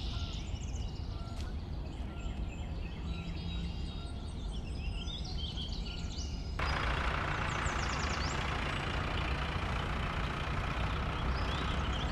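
Cartoon tractor engine sound effect: a low steady rumble with birds chirping over it, then about six and a half seconds in a louder engine noise cuts in abruptly and keeps running.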